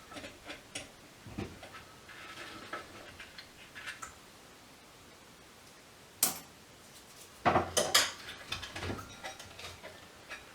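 Metal tools and parts clinking and knocking while a variable frequency drive is being pried apart: light clicks at first, a sharp knock about six seconds in, then a few louder knocks close together a couple of seconds later.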